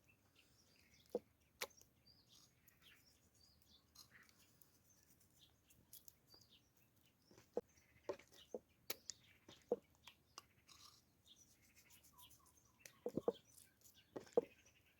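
Birds chirping faintly, with scattered sharp clicks and knocks, thickest near the end.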